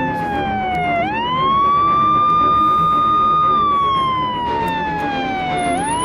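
A siren wailing in one steady tone: it slides slowly down in pitch, sweeps quickly back up about a second in, holds level for a couple of seconds, then slides down again and sweeps back up near the end.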